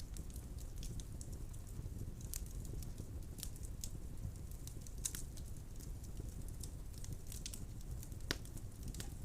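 Wood fire burning in a fireplace: a steady low rumble of flames with frequent sharp crackles and pops from the burning logs, one louder pop near the end.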